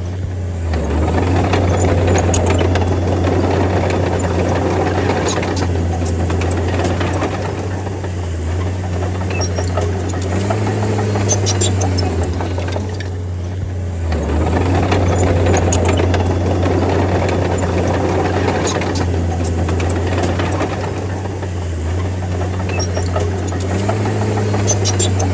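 D30 bulldozer's diesel engine running steadily, with track and blade clatter that swells and fades in long cycles as it works the soil. The engine note rises briefly twice, around ten seconds in and near the end.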